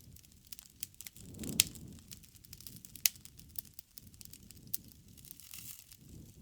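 Campfire crackling: burning wood snapping and popping over a low rumble of the flames, with two louder pops about a second and a half and about three seconds in.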